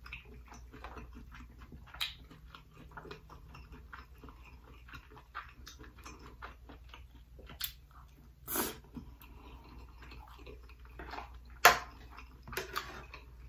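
Close-miked chewing of a mouthful of rice and spicy shrimp, with wet lip smacks and scattered short clicks. The loudest is a single sharp click near the end.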